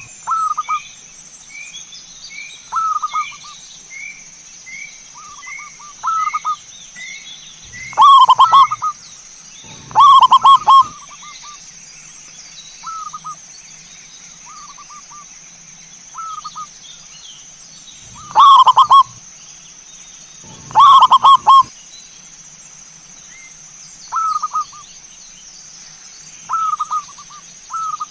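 Zebra doves (perkutut) cooing: repeated rolling, trilled coo phrases about a second long, four of them very loud and the rest softer. For the first several seconds another bird gives short rising chirps about twice a second, and a steady high whine runs underneath.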